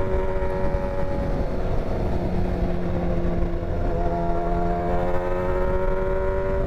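Motorcycle engine running under way with wind noise on the microphone; the engine note drops briefly about two seconds in, then holds and climbs slightly.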